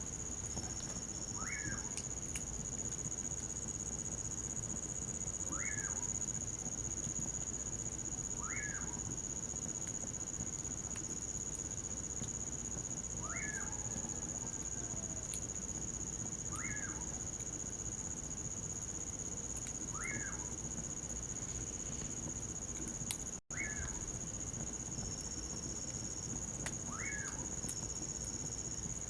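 Common pauraque (bacurau) calling: a short whistled note that rises and falls, repeated about every three to four seconds, over the continuous high trilling of crickets.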